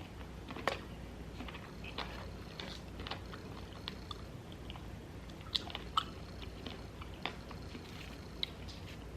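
A person chewing and biting food close to the microphone, with irregular soft crunches and wet mouth clicks; sharper ones come just under a second in and twice around five and a half to six seconds.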